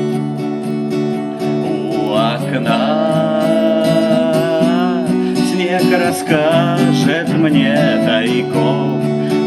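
Acoustic guitar strummed as a song accompaniment, with a voice singing over it from about two seconds in.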